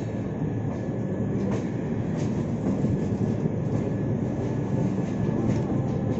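Tamil Nadu Express with its LHB coaches running along the track: a steady rumble with scattered light clicks from the wheels on the rails.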